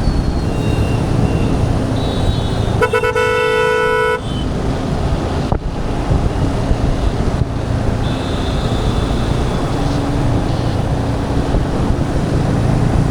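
Motorcycle riding in city traffic, a steady low rumble of engine and wind. About three seconds in, a vehicle horn honks loudly for just over a second, and fainter horns sound briefly near the start and about eight seconds in.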